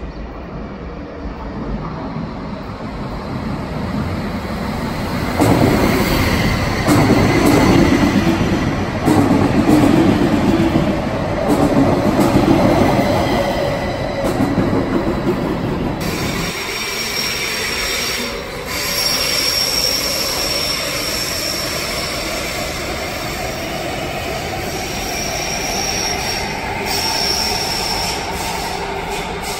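SBB double-deck electric S-Bahn train running along the curved platform, loud for several seconds as it passes, with its wheels squealing on the curve. In the second half a whine slowly rises in pitch, with short high squeals over it.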